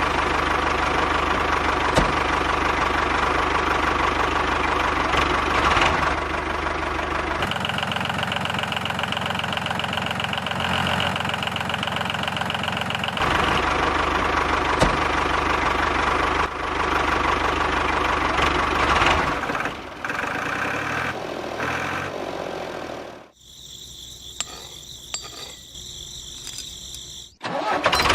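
A motor running steadily, its pitch and tone changing abruptly several times between shots, with a much quieter stretch near the end.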